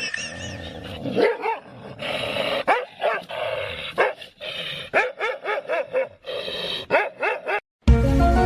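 A dog barking and yipping in a long string of short calls, each rising and falling in pitch. It cuts off suddenly near the end.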